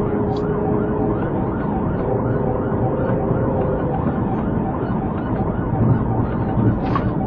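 Police siren sounding over a steady rumble of vehicle engine and road noise.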